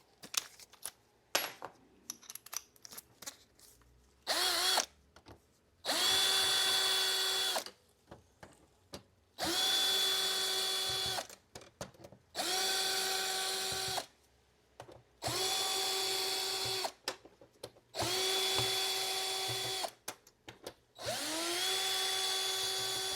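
Electric screwdriver running in seven short bursts of about one and a half to two seconds each, the first one brief. Each burst has a motor whine that rises briefly and then holds steady as screws are backed out, with small clicks of handling between the bursts.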